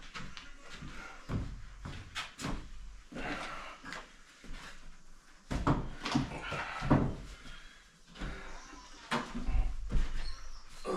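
Irregular knocks, bumps and scrapes from handling and fitting hard parts during a bathroom install, a few of them sharp and loud.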